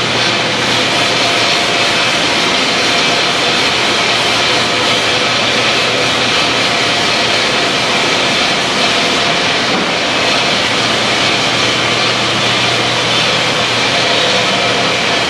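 Steady, loud machine noise with a constant low hum and a few faint steady tones, unchanging throughout.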